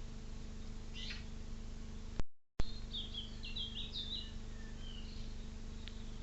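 A songbird singing a quick run of about seven short, high, down-slurred notes, over a steady low electrical hum. The sound cuts out for about half a second just before the song.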